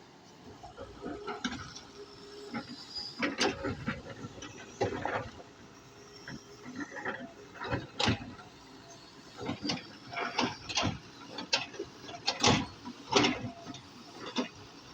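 Doosan DX140 excavator at work: irregular metallic clanks and knocks, a few sharp ones ringing briefly, spaced unevenly.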